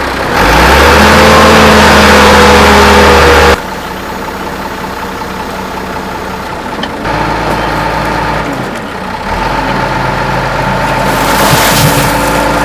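A motor or engine running steadily, with a constant hum. It is loudest for about three seconds near the start, then drops abruptly and rises again near the end.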